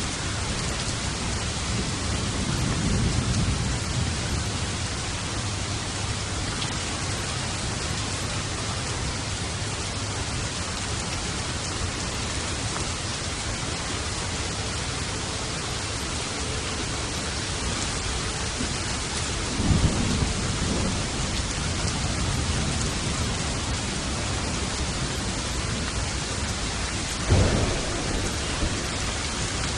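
Steady heavy rain with thunder: a low rumble early on, then two sharper thunderclaps rolling off, one about two-thirds of the way through and one near the end.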